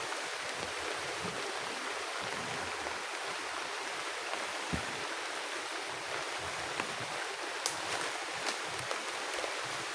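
Heavy rain falling steadily in a forest, an even hiss with a few sharper drop taps now and then.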